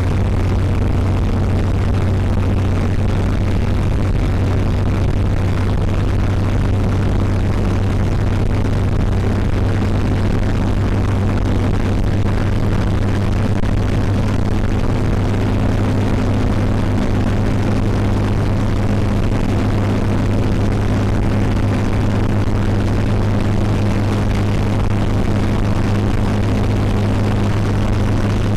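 REO vehicle running on the road, a steady low drone from engine and drivetrain, with a few higher steady tones joining in several seconds in.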